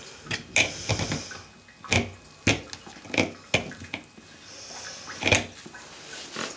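Irregular sharp clicks and knocks of hardware and hand tools being handled and set down, about nine in all, with a faint rustle between them.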